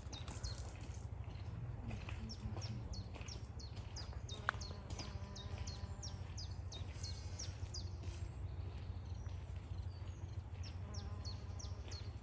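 Small birds chirping: short, high notes that each drop in pitch, repeated several times a second, over a steady low rumble.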